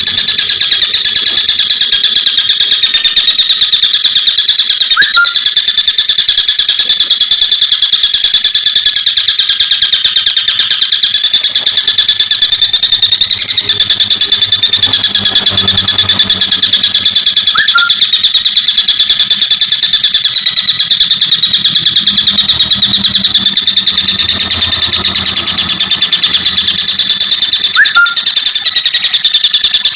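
Tengkek buto kingfisher giving a continuous, very fast rattling chatter, the 'ngekek' call, loud and high-pitched. Three short rising chirps stand out, about five, eighteen and twenty-eight seconds in.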